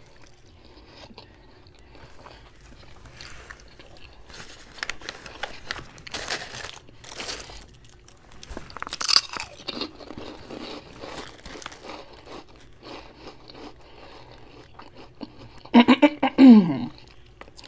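Close-up chewing and biting into a deli hero sandwich: soft crunches and wet mouth sounds, with a louder crunch about nine seconds in. Near the end comes a short hum from the eater, falling in pitch.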